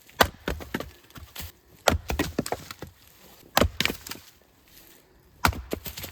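Firewood being chopped and split with an axe: four strikes about two seconds apart, each followed by a short burst of cracking and clattering wood.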